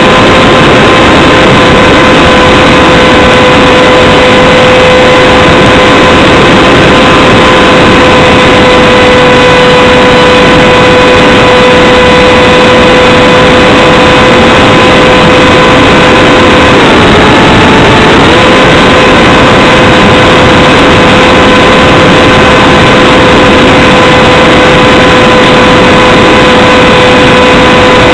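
Electric motor and propeller of a Radjet 800 RC flying wing, heard from its onboard camera, running at a steady high pitch under loud wind rush. About 17 seconds in the pitch drops briefly as the throttle eases, then returns to the same steady tone.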